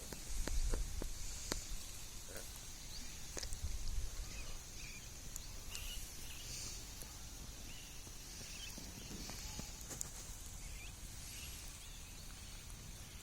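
Birds giving short scattered chirps over a steady high hiss, with a few sharp clicks and low rumbles near the start.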